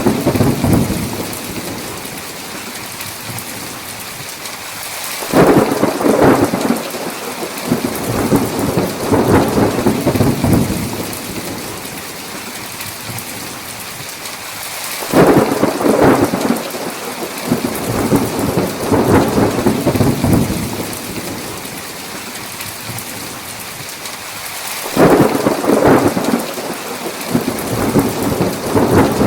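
Thunderstorm: steady heavy rain with three peals of thunder, about ten seconds apart. Each starts suddenly and rolls on for several seconds.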